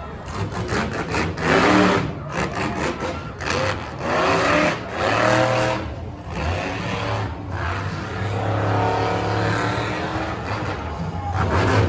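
Monster truck engine revving hard, its pitch climbing and dropping in repeated surges, with a long high-rev stretch near the end.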